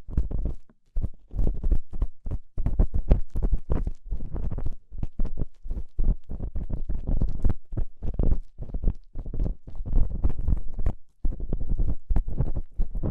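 Close ear-cleaning sounds on a binaural microphone's ear: an ear pick or similar tool scratching and rubbing in quick, irregular strokes, several a second, with two short breaks.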